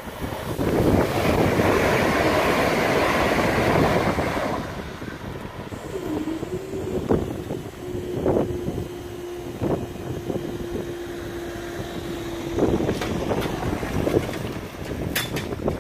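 Southern Class 377 electric train running past over the level crossing, a loud rush of wheels and traction that dies away after about four seconds, with wind buffeting the microphone. A steady hum follows for several seconds from about six seconds in.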